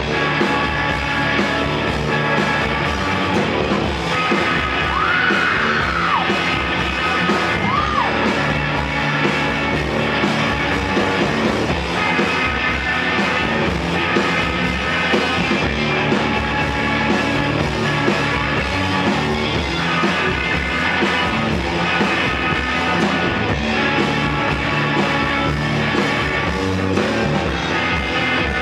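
Three-piece rock band playing live, an instrumental stretch between sung lines. A couple of short rising-and-falling glides stand out about five and eight seconds in.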